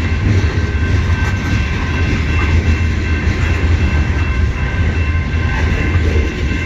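Long CN freight train rolling past close by: a loud, steady rumble of cars on the rails, with a steady high ringing tone above it.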